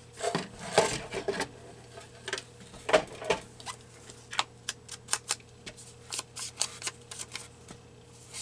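Paper rustling as it is handled, then scissors snipping paper in a run of small sharp clicks, about two or three a second.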